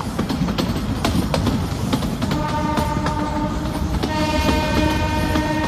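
Narrow-gauge train coach rolling along, its wheels rumbling and clicking over the rail joints. The diesel locomotive's horn sounds twice, a short blast about two seconds in and a longer one starting about four seconds in.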